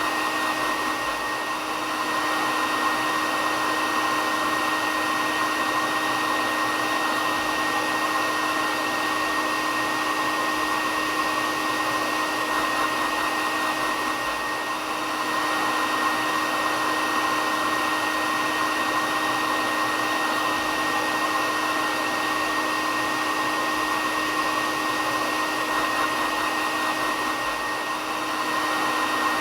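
Hair dryer running continuously: a steady rush of air with a constant whine on top. Its loudness dips slightly about a second in, around halfway and near the end.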